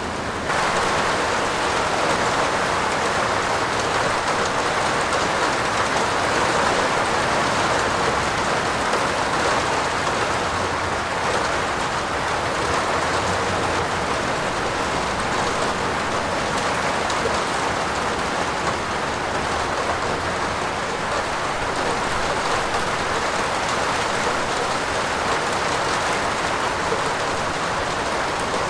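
Steady heavy rain falling on a roof, an even dense hiss that steps up in loudness about half a second in and then holds.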